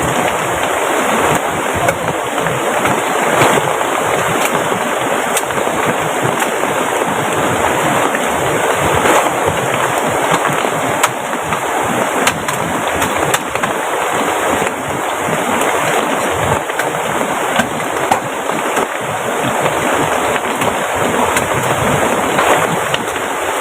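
Fast-flowing river rushing steadily under heavy rain, swollen by the downpour. Scattered sharp ticks sound through the steady rush.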